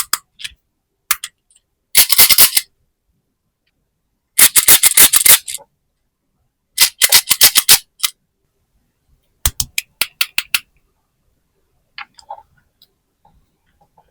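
Bursts of rapid, sharp plastic clicking and rattling from toys being handled, about seven bursts of up to a second each with short silences between them.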